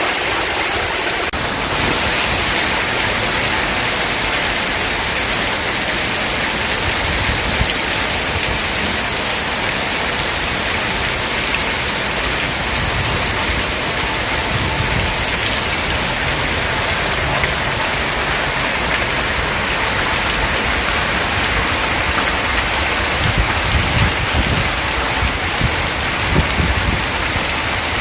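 Heavy summer-storm rain pouring steadily, a dense even hiss of rain hitting surfaces, with a few low uneven rumbles near the end.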